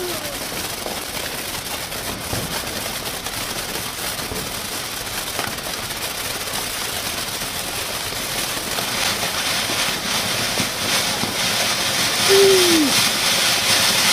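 Sky Shaker firework starting up after a wait: about nine seconds in, a hissing crackle sets in and grows louder toward the end, with a brief falling tone shortly before.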